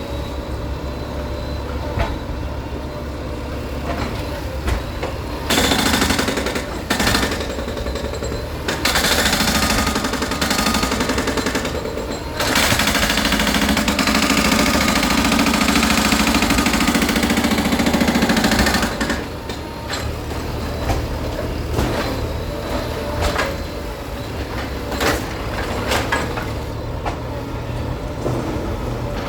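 Heavy diesel earthmoving machinery working, its engine running steadily with scattered knocks. Three times it swells into loud spells of engine noise under load, the longest from about 12 to 19 seconds in, then drops back.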